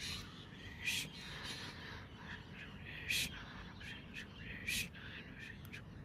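Birds calling outdoors: three loud, short harsh calls, about a second in, three seconds in and near five seconds, with fainter calls between them over a steady low background noise.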